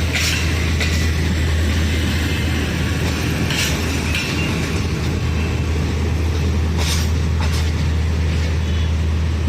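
Train at the station platform: a locomotive engine's steady low drone, with a few sharp metallic clacks spaced a few seconds apart.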